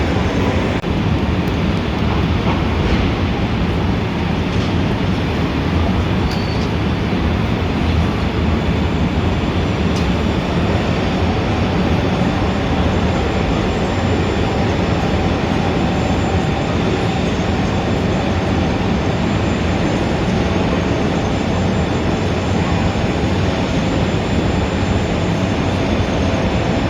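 Steady street ambience: a continuous low rumble and hiss of traffic, with faint steady tones running through it.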